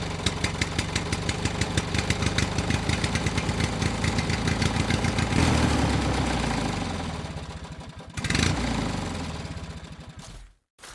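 Small engine of a homemade mini tractor running with a rapid, even putter. It revs up about five seconds in and slows again, gives a short rev near eight seconds, then runs down and stops near the end.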